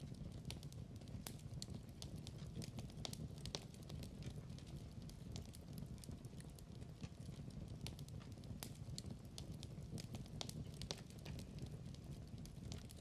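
Wood fire in a fireplace crackling and popping: a steady low rumble of the flames with irregular sharp snaps.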